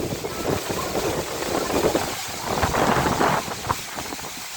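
Storm wind gusting and buffeting the microphone, a rough rumbling rush that swells to its loudest a little past halfway.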